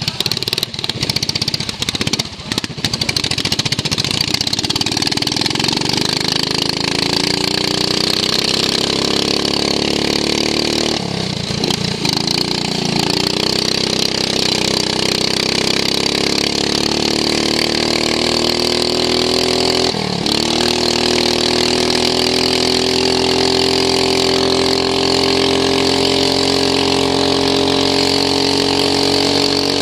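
Racing lawn mower's engine heard onboard under hard running, its pitch climbing as it accelerates, with a steady high whine above it. The revs drop suddenly twice, about 11 s and 20 s in, as the throttle comes off, then build again and hold near the end. A few knocks come in the first three seconds.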